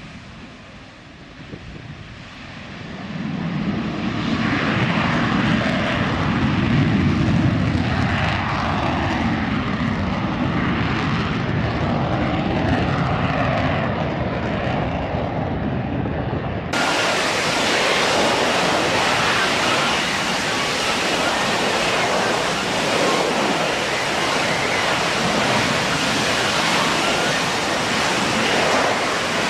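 F-35B Lightning II jet engine (Pratt & Whitney F135) running loud, building about three seconds in, with a sweeping, shifting rush as the jet passes. About halfway through the sound cuts abruptly to a steady, brighter hissing rush.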